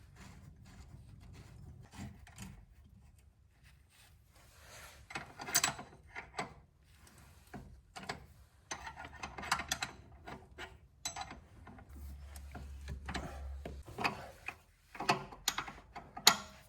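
Hand tools and metal suspension parts clicking and clinking in irregular clusters, as a lower control arm is fitted to a car.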